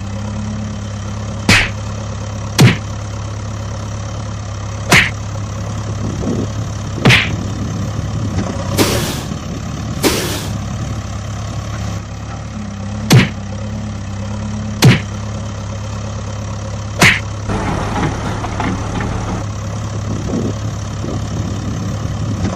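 A steady engine drone, like a vehicle idling, with a sharp click or knock every few seconds and two short hisses about nine and ten seconds in.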